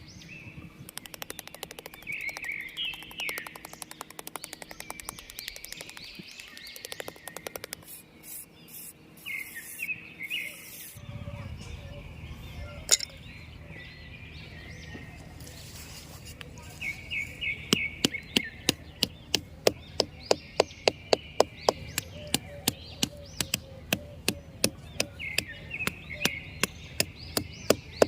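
Birds chirping in short repeated calls. From about two-thirds of the way in, a steady run of sharp knocks about twice a second, like tapping or chopping on wood.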